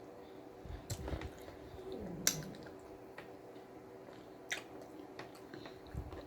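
Close-up mouth sounds of someone chewing and biting into a BLT sandwich, with a few sharp wet clicks; the loudest comes a little past two seconds in.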